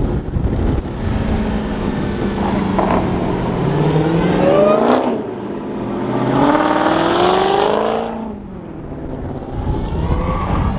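Performance cars' engines and exhausts driving past, the engine pitch rising to a peak about five seconds in, then a second rise and fall between about six and eight seconds in.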